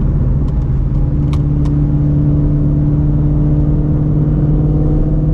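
Ford 5.2L Voodoo flat-plane-crank V8 of a Shelby GT350 with long-tube headers, X-pipe and Borla cat-back exhaust, running at a steady engine speed on a drive with no revving. A few faint short ticks sound in the first two seconds.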